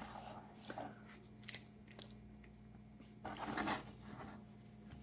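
Faint scraping of a utensil spreading thick peanut butter fudge in a lined pan: a few short soft scrapes, with a longer one a little past halfway, over a low steady hum.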